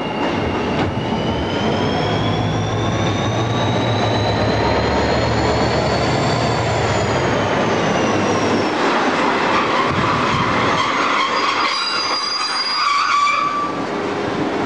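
Diesel locomotive hauling a passenger train into a station: its engine runs with a deep hum and a whine that rises, then falls away as the locomotive passes. As the coaches roll by and slow, a high squeal comes from them near the end.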